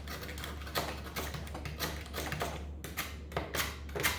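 A knife chipping and scraping a brittle glue layer and old damper felt off the wooden ends of Steinway grand piano keysticks. It makes a run of irregular sharp clicks and scrapes, a few each second.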